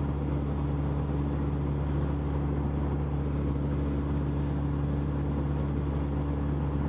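Cessna 172's piston engine and propeller droning steadily in level flight, heard inside the cabin.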